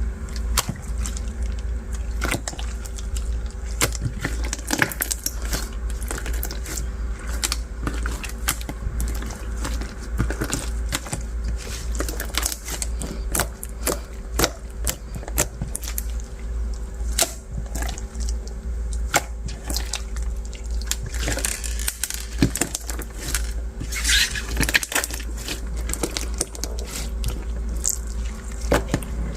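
Translucent bead slime being squeezed and pressed by hand: dense, irregular crackling and clicking from the beads mixed with soft squishing of the slime.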